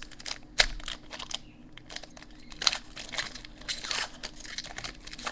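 Trading-card pack wrapper being torn open and crinkled by hand, a run of sharp crackles, the loudest about half a second in.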